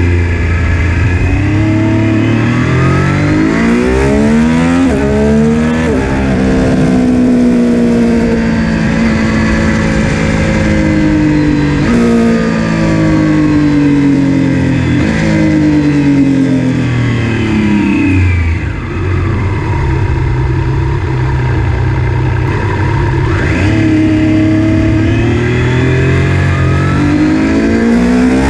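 Triumph Street Triple RS 765's inline three-cylinder engine, breathing through the stock muffler with its secondary catalytic converter removed, running hard: the pitch climbs and falls repeatedly, with several sudden drops like gear changes under way.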